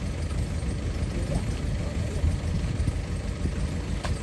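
Mini excavator's diesel engine running steadily with a low rumble, and a short sharp click about four seconds in.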